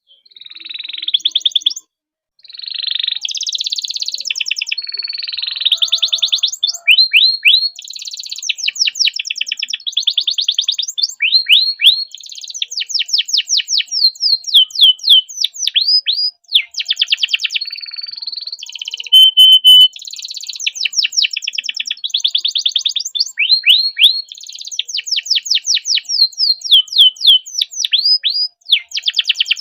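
Domestic canary singing a long, continuous rolling song of rapid trills and fast runs of repeated down-sweeping notes, with a brief pause about two seconds in.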